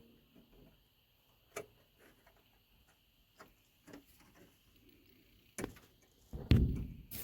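A few light, scattered knocks and clicks, then a heavier thump with a short low rumble about six and a half seconds in, followed by one more knock.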